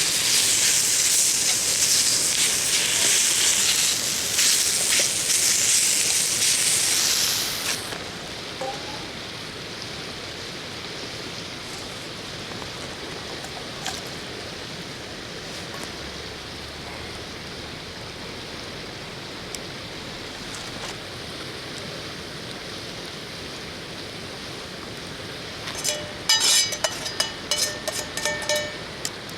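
Loud sizzling with crackles from food frying in a pan, which stops abruptly about eight seconds in, leaving a quieter steady hiss. Near the end comes a quick run of ringing metallic clinks.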